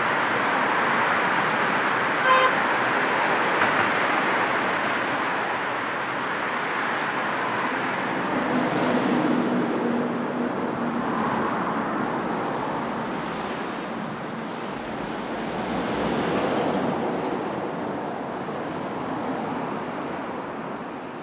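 Steady city road traffic: cars passing one after another in swells over a constant rumble of tyres and engines. A short car horn toots about two seconds in.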